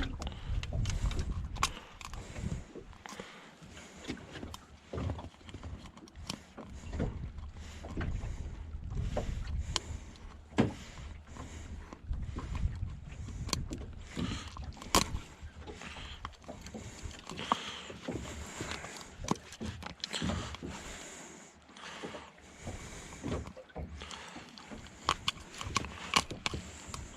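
Irregular knocks and clicks from handling in a fishing boat: gear and fittings bumping against the hull.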